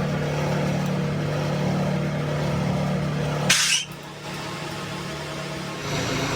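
An engine running steadily at a constant speed, broken about three and a half seconds in by a short loud hiss, after which it is quieter until the steady running comes back near the end.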